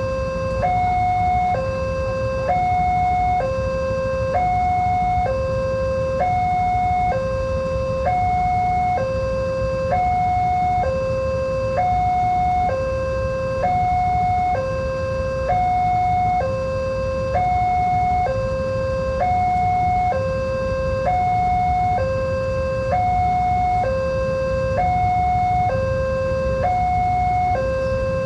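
Railway level-crossing warning alarm sounding its two-tone signal, switching evenly between a lower and a higher tone about once a second, with a steady low rumble beneath. The alarm warns that a train is approaching and the crossing barriers are down.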